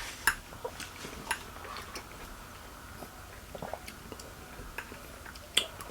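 Eating ripe papaya: scattered soft clicks and smacks of chewing, with occasional light taps on a plate.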